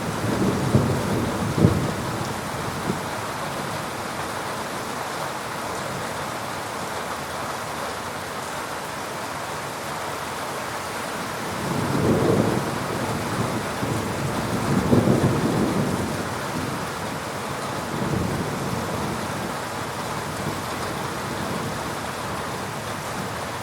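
Steady rain hissing, with low rolls of thunder rising and fading several times: one in the first two seconds with a couple of sharper cracks, two more about halfway through, and a weaker one a little later.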